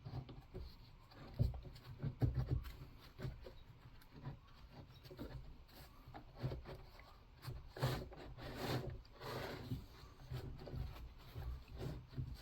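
Irregular light knocks, scrapes and rubbing from hands and tools working on a chainsaw during disassembly, with a busier patch of scraping near the end.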